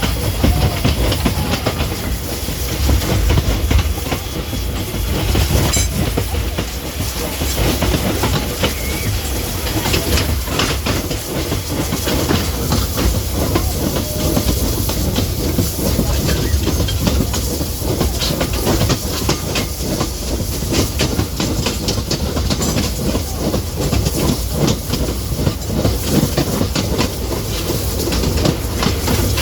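Vintage railway train running along the track: a steady low rumble, with the wheels clicking over the rail joints again and again.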